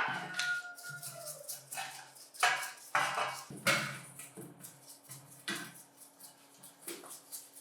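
Irregular rasping strokes of hand work on the bench grinder's metal body, about a dozen short strokes, loudest at the start and weaker toward the end, over a faint steady hum.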